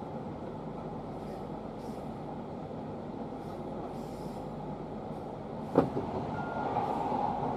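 Steady running rumble of a JR Kyushu 811 series electric train, heard from inside its cab. Nearly six seconds in, a sudden bang as an oncoming train meets it, followed by the louder rush of that train passing close alongside.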